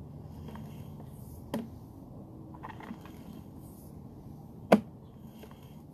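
Sharp knocks from sewer-scope equipment being handled, one small and one loud near the end, over a low steady rumble.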